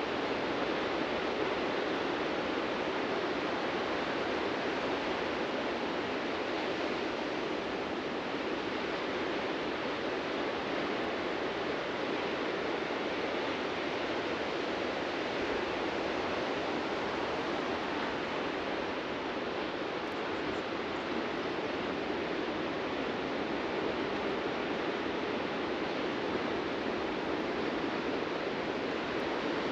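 Ocean surf washing onto a beach, heard as a steady, unbroken rush of noise with no distinct single breaker standing out.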